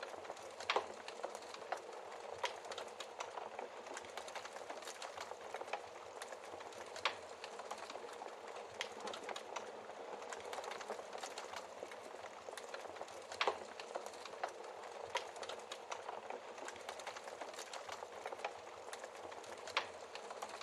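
Wood fire crackling in a fireplace: a steady hiss with frequent small crackles and a few sharper pops, about one every several seconds.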